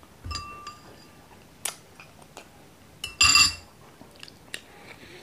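Metal spoon clinking against a ceramic bowl twice, each clink ringing briefly; the second, a little over three seconds in, is the louder. A few small clicks sound between them.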